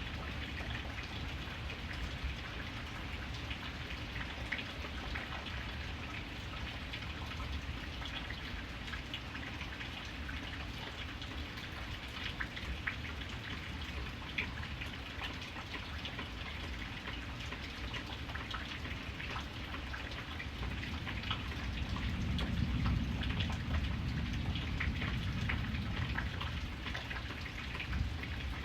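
Steady rain with many individual drops ticking on a surface. A low rumble swells for a few seconds about three-quarters of the way through.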